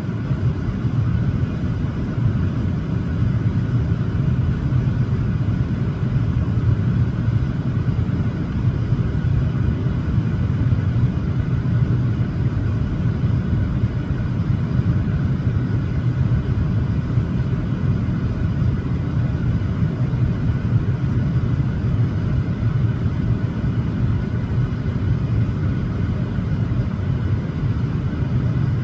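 A steady low rumble, loud and unbroken, with no distinct calls or impacts.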